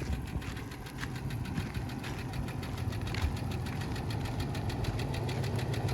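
Pickup truck engine idling steadily, with a fast, even ticking over a low hum.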